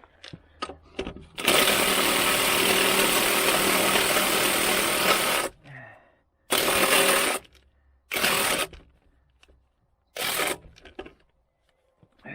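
A handheld power tool running in one long burst of about four seconds, then three short bursts, after a few light clicks of parts being handled.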